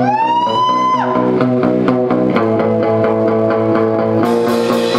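Rock band playing live: electric guitar and bass over a steady drum beat. A high note slides up and is held for about the first second, and the cymbals grow brighter near the end.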